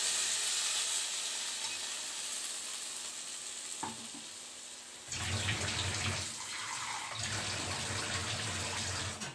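Ground coconut-onion-tomato masala paste sizzling in hot oil in a kadai with okra, fading away over about five seconds. Then water runs, likely from a tap, in two stretches with a short pause, until near the end.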